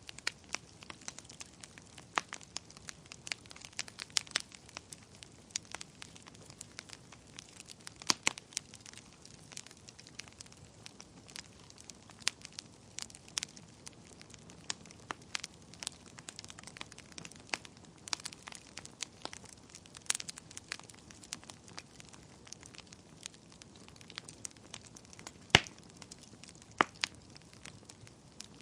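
Wood fire burning in a fireplace: irregular crackles and pops over a faint steady hiss, with two louder sharp pops near the end.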